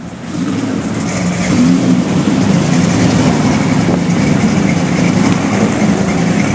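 Hot rod engine running steadily and loud, swelling in level over the first second and then holding at a deep, even note.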